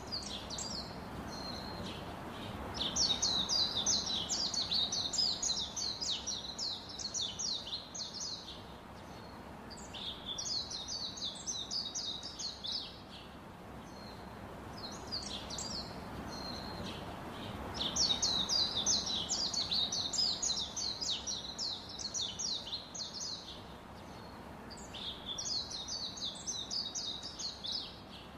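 Small bird chirping: quick runs of high chirps in spells of a few seconds, coming back several times, over a faint steady background noise.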